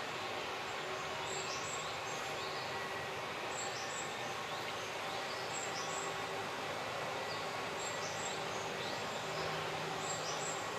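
Woodland ambience: short, high bird calls repeating about once a second over a steady background hiss.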